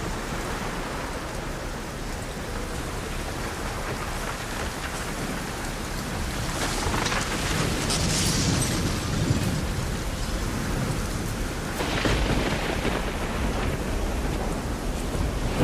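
Heavy rain falling steadily, with rolls of thunder rumbling in, the first building about halfway through and another about twelve seconds in.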